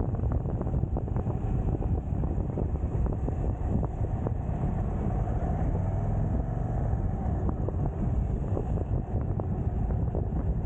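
Motorcycle riding along, its engine running under a steady rush of wind on the microphone.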